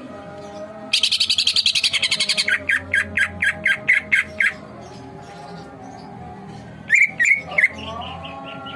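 Cucak ijo (greater green leafbird) singing in full voice: a fast high trill, then a run of about eight loud repeated notes, and a few sharp calls near the end. Underneath runs a faint steady background of held tones and soft chirping.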